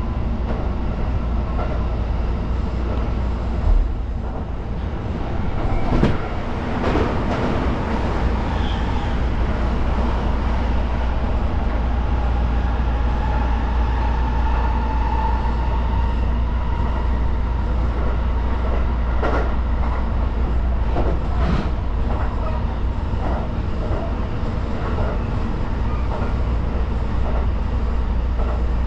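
Electric express train running at speed, heard from the front cab: a steady rumble of wheels on track with a few sharp clicks as wheels cross rail joints, and a brief faint rising whine around the middle.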